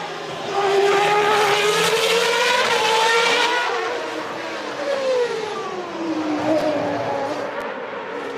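1993 Formula One cars with 3.5-litre non-turbo engines running at high revs on the street circuit, several engine notes overlapping. Loudest in the first few seconds; about five seconds in, one engine's pitch falls steeply.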